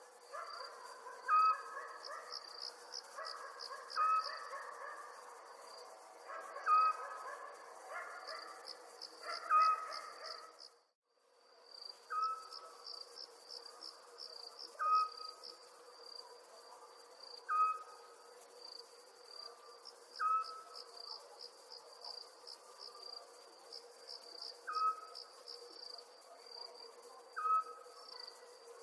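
Crickets chirping in quick pulsed trills in a night ambience, with a short clear call repeating every two to three seconds over them. The sound cuts out completely for about half a second roughly eleven seconds in.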